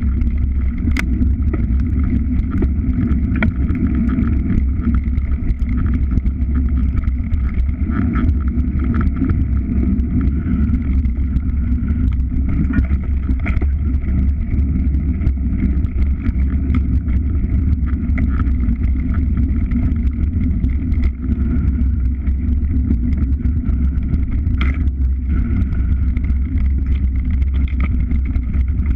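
Moving vehicle running steadily, a constant low rumble with a steady engine drone and no change in pace.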